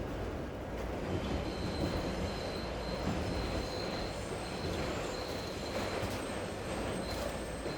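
Train running past with a steady heavy rumble and a thin high squeal of wheels on rails that sets in about a second in and fades near the end.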